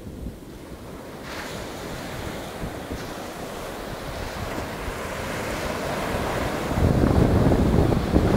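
Ocean surf breaking and washing up the beach, a hiss that swells from about a second in. Wind buffets the microphone with a low rumble that grows louder near the end.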